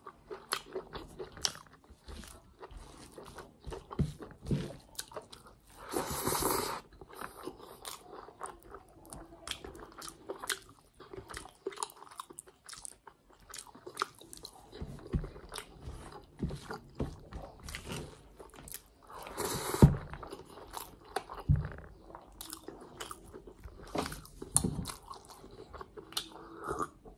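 Close-up mouth sounds of someone eating chicken liver and gizzards with rice by hand: steady chewing and biting with many small wet clicks and crunches. There are two louder, noisier bursts, about six seconds in and about twenty seconds in.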